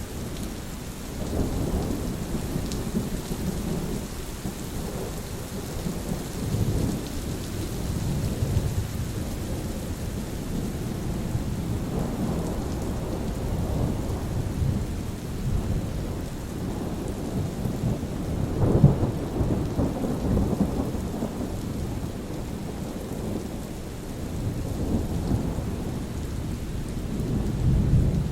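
Steady rain with low, rolling thunder rumbling on and off, swelling loudest about two-thirds of the way through and again near the end.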